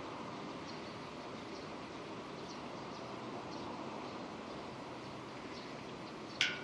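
Steady rain, an even hiss with faint scattered ticks. A single sharp, high click stands out near the end.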